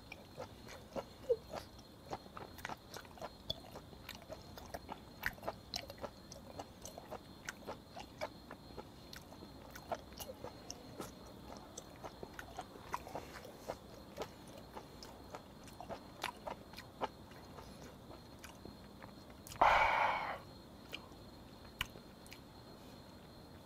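Faint, close-miked chewing of raw flounder sashimi with a lot of wasabi: many small irregular wet clicks and crunches. About twenty seconds in comes one loud breath of about a second as the wasabi bites.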